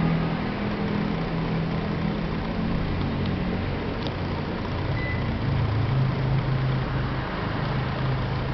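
Panasonic CS-YN9SKJ split air conditioner running, a steady airy hiss mixed with a low engine-like drone that drops in pitch about halfway through. A short high beep sounds about five seconds in.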